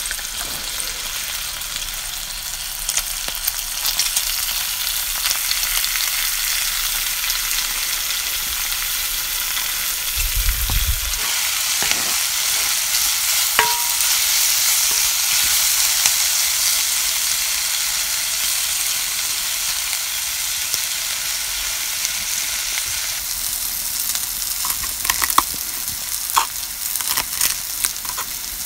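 Meat and onion sizzling in a cast-iron Dutch oven over a campfire, stirred with a wooden spatula. The hissing sizzle swells in the middle, with one dull knock about ten seconds in. Near the end come sharp taps of a knife chopping parsley on a wooden board.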